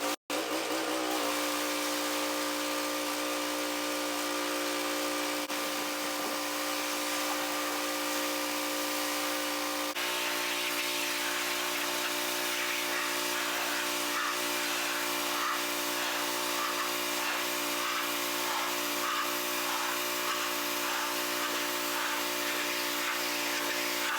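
Small electric power tool motor running steadily at a constant speed, with a steady whine over a hiss.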